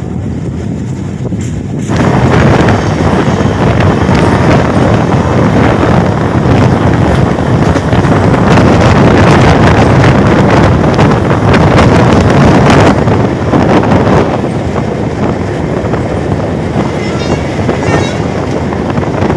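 Passenger train running at speed, heard from an open door or window: wind rushing over the microphone over the rumble of the coaches on the track. The noise jumps up sharply about two seconds in and eases off somewhat after about fourteen seconds.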